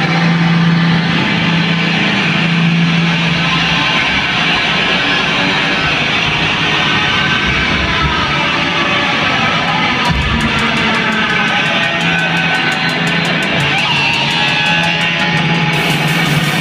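Loud heavy metal played by a band: distorted electric guitars over a recurring held low note. A fast run of sharp hits comes in about ten seconds in.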